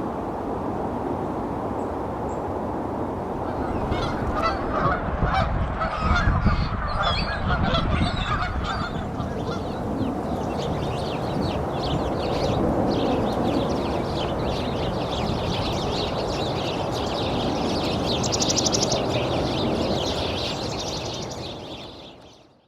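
A flock of geese honking, many overlapping calls that start about four seconds in and carry on over a steady background rush, fading out at the end.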